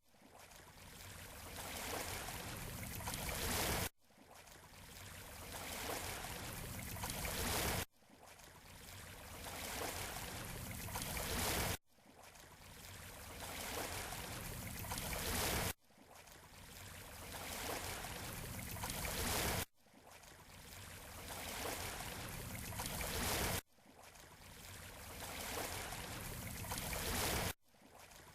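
Waves washing on a beach shore as a steady rush of water noise. The recording is a short loop of about four seconds: each pass swells in loudness, then cuts off abruptly and starts again.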